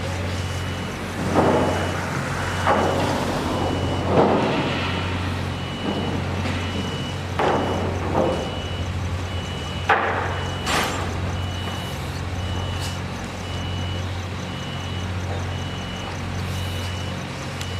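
A vehicle's backup alarm beeping steadily, about one high-pitched beep a second, over the steady hum of an idling engine. Several loud knocks or clanks come in the first ten seconds, the loudest about four seconds in.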